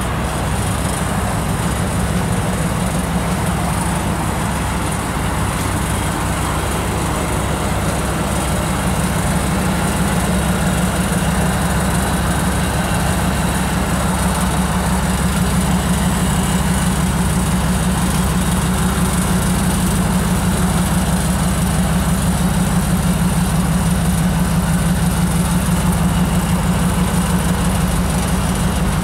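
Ford F-150 Lightning's supercharged 5.4-litre V8 idling steadily, a low, even hum.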